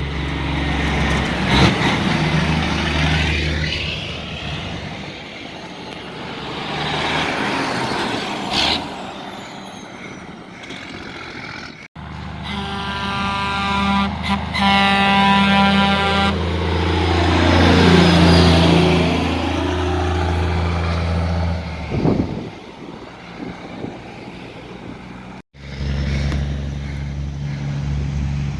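Heavy trucks running with deep engine rumble, with a long multi-tone air horn blast in the middle, in several short clips cut together.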